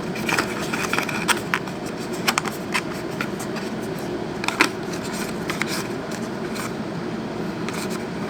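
Phone box and packaging being handled: irregular light clicks and rustles, a few sharper taps, over a steady background hum.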